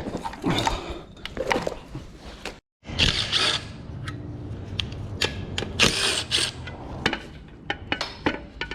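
Hand work on engine parts: scattered metallic clicks and knocks with two short hissing bursts, broken by an abrupt edit cut about two and a half seconds in.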